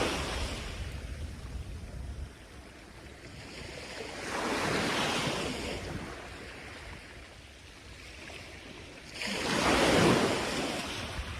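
Sea surf breaking and washing up the beach in three swells about five seconds apart, each rising and falling away, with low wind rumble on the microphone in the first two seconds.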